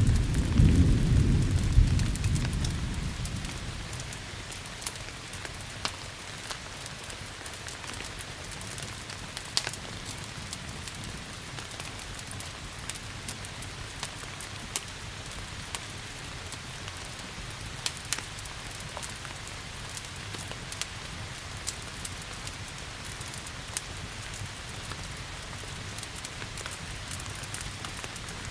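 A low rumble of thunder dies away over the first few seconds, leaving steady rain with scattered sharp crackles and pops from a wood fire.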